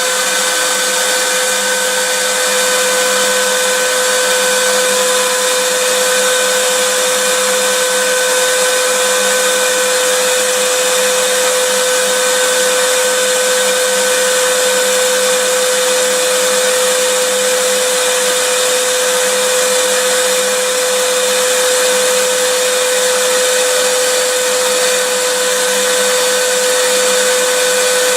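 Vacuum cleaner running steadily: a constant rushing hiss of motor and airflow with a steady whine on top, unchanging throughout.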